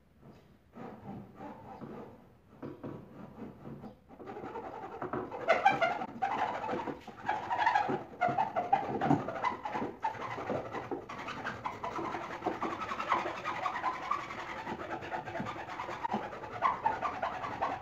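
Birds cooing: sparse and faint at first, then fuller and continuous from about four seconds in.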